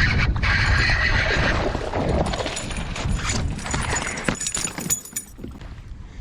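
A just-caught fish being handled aboard a kayak: irregular knocking, clattering and splashing, loudest in the first two seconds and dying down toward the end.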